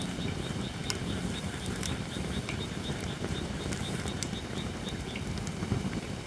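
Holly firewood burning in an open campfire: a steady low rush of flame with a few sharp crackles and pops, near one, two and four seconds in. A faint, rapidly repeated high chirping runs in the background.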